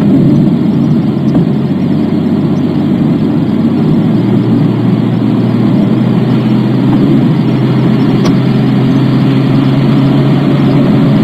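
Car cabin noise while accelerating up a highway on-ramp: a steady engine and road rumble with a low, even hum.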